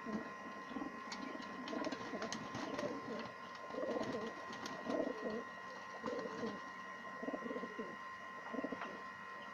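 Pigeons cooing over and over, several low calls overlapping, with a few light clicks and a steady faint hum underneath.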